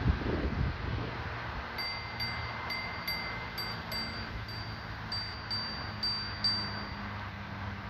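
Bright chime tones ringing about twice a second, each note sustaining briefly, starting about two seconds in, over a low steady rumble.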